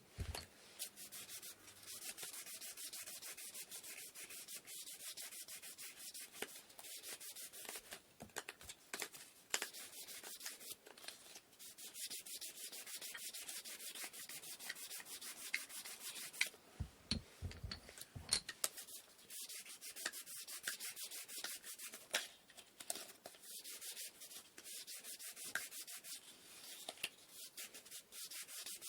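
Sandpaper rubbed by hand over wooden inkle loom parts in quick back-and-forth strokes, with short breaks. A few low knocks come about two-thirds of the way through.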